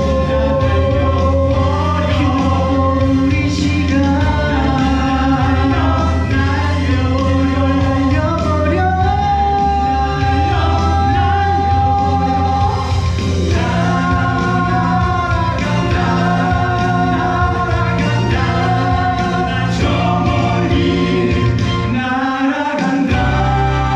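Musical-theatre song with instrumental accompaniment and several voices singing long held notes in harmony, without clear words.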